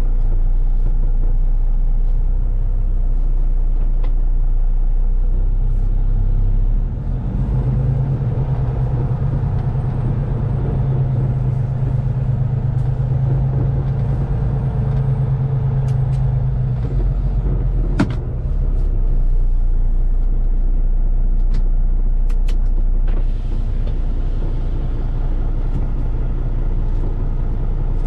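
Semi truck running down the road, a steady low engine drone with road noise; the engine note steps up for a stretch in the middle and settles back, with a sharp click a little past halfway.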